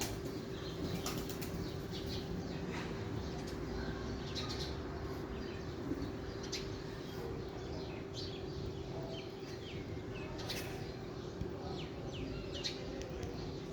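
Steady rain hiss with a constant low hum under it and short high-pitched sounds scattered throughout.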